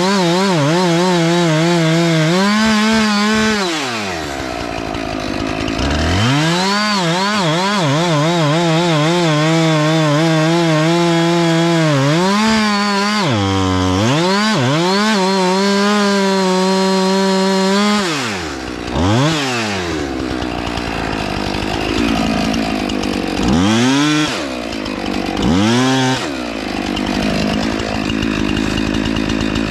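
Two-stroke chainsaw cutting into a pine at full throttle, its note wavering under load. It drops to idle a few times and revs back up, and in the last third it mostly idles with three short revs.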